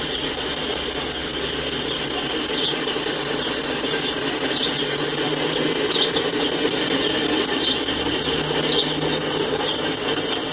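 Freight cars rolling past on the rails, a steady rolling noise of steel wheels on track, with short high-pitched wheel squeals several times.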